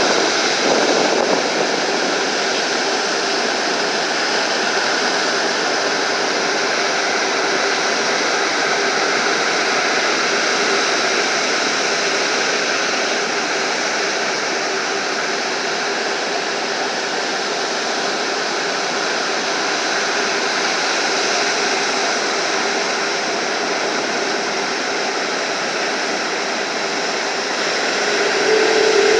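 Airbus A380's four Rolls-Royce Trent 900 jet engines running close by: a steady whine of several tones over a loud rushing noise. Near the end a lower tone comes in and the sound grows louder.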